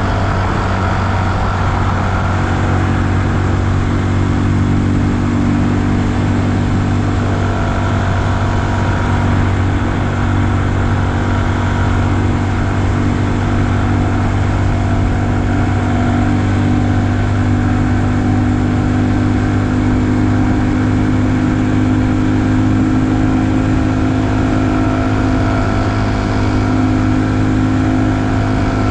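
Honda Super Cub's single-cylinder four-stroke engine running at a steady cruise, with even road and wind noise.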